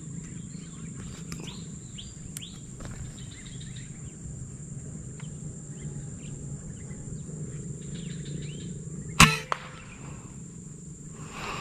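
A single sharp shot from a PCP air rifle about nine seconds in, followed a fraction of a second later by a fainter click. Faint bird chirps sound over a steady outdoor background before the shot.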